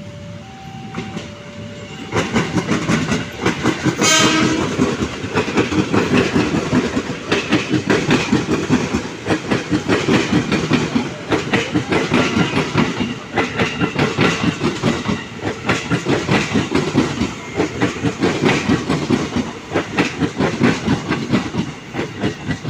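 Electric train passing close by, its wheels clattering rapidly over the rail joints, with a short horn blast about four seconds in. For the first two seconds a two-tone level-crossing warning bell alternates before the train reaches the microphone.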